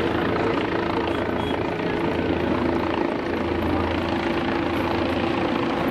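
Helicopter flying low overhead, its rotor and engine making a steady, continuous noise.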